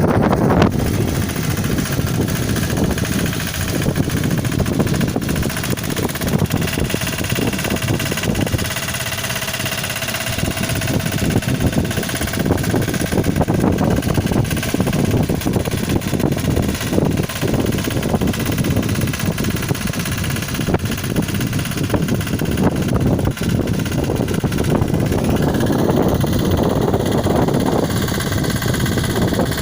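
A 10 hp mini tractor's engine running steadily with a fast, continuous chugging, easing briefly about nine seconds in.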